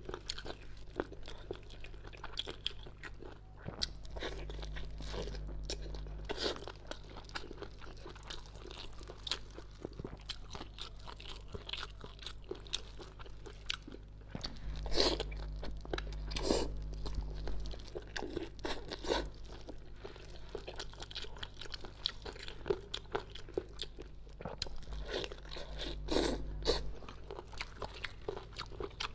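Close-up eating sounds: chewing and repeated sharp crunches as braised fish is bitten, its chewy cartilage crunching between the teeth. A low hum comes and goes underneath.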